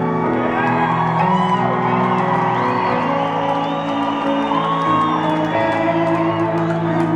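Live concert music of a slow piano ballad, with audience members whooping and shouting over it throughout.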